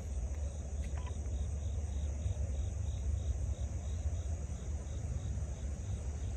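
Insects chirping in an even rhythm of about two chirps a second, over a steady high trill and a low steady rumble.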